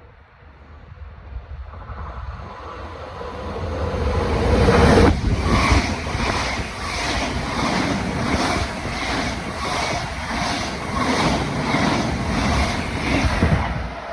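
NS VIRMm double-deck electric train, twelve carriages long, approaching and passing at speed. A rising rush peaks as the front passes about five seconds in. Then comes a steady rhythmic wheel clatter, about one or two beats a second, as the carriages go by, dropping off near the end.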